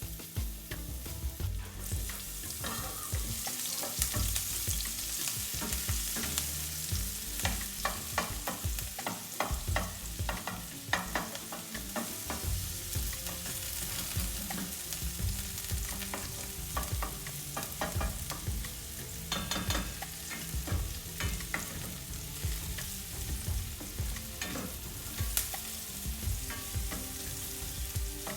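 Food sizzling in a hot pan while a utensil stirs it, with frequent clicks and scrapes against the pan over a steady frying hiss.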